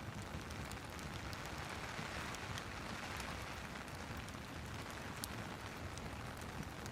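Steady rain and a crackling fireplace: an even hiss of rain with small sharp pops and ticks scattered through it.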